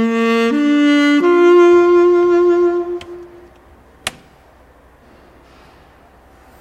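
Short intro jingle: three sustained brass-like notes stepping upward, the last held for about two seconds before it fades. A sharp click follows about a second later.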